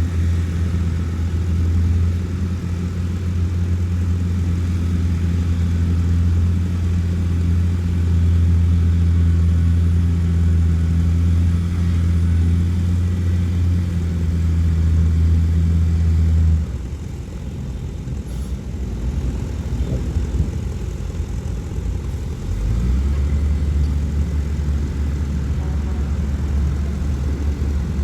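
Heavy diesel engine of earthmoving machinery running with a steady low drone. About two-thirds of the way through it drops away suddenly, and a few seconds later a steady low engine drone returns at a slightly lower pitch.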